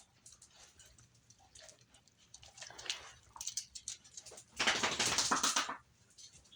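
Three-day-old Catahoula puppies stirring, small sounds among scattered soft clicks, with one loud rustle lasting about a second a little past the middle.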